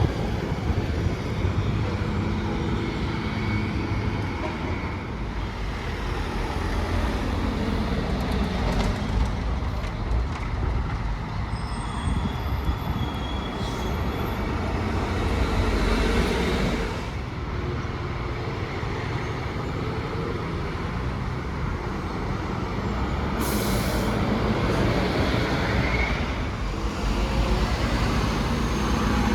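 City traffic with a bus passing, engine and tyres rumbling steadily, and a short sharp hiss of air brakes about two-thirds of the way through.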